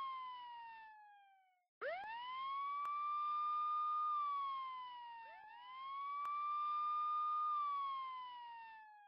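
Police siren on a slow wail: the tone falls away and cuts out just before two seconds in, then two full cycles follow, each rising in about a second, holding for about two seconds and sliding back down.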